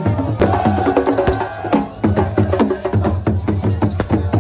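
Music led by fast, dense drumming: rapid sharp drum strikes, several a second.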